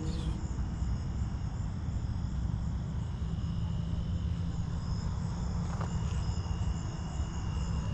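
Insects, likely crickets, chirping steadily with a high pulsing trill, over a constant low rumble.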